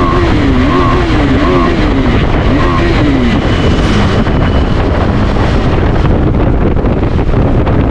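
KTM 390 Adventure's single-cylinder engine revving up and down several times in quick succession over the first few seconds, then running on under wind rush on the microphone.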